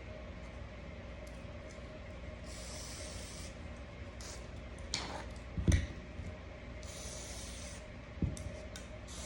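Pistol cleaning: two short hissing bursts, each a little under a second, with a few sharp knocks of gun parts being handled, the loudest a little past halfway.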